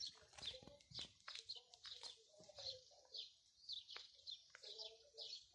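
Small birds chirping in quick, high notes, several a second, with some lower calls mixed in.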